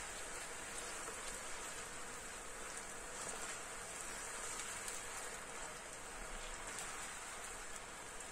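Chopped onions and garlic sizzling steadily in hot oil in a frying pan as they are sautéed.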